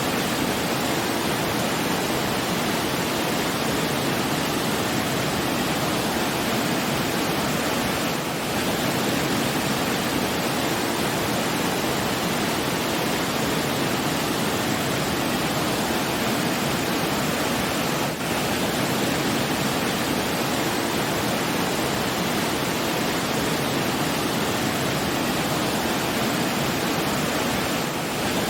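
Steady rushing water, an even, unbroken roar like a waterfall, with a slight brief dip in level about every ten seconds.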